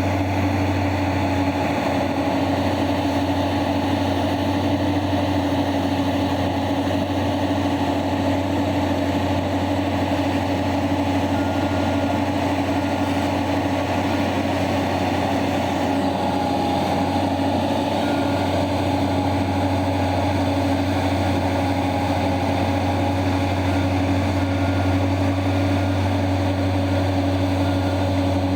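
Diesel engine of heavy open-pit mining machinery running steadily with a low, even drone.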